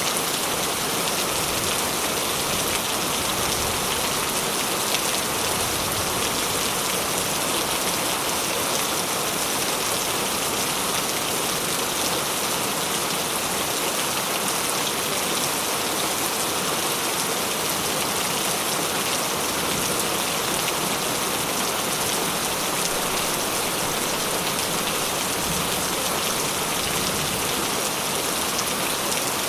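Steady rain falling on a surface, a dense, even patter of drops with no letup.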